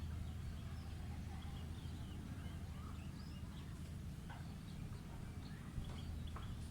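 A steady low hum runs throughout, with faint, scattered bird chirps over it and a couple of light knocks near the end.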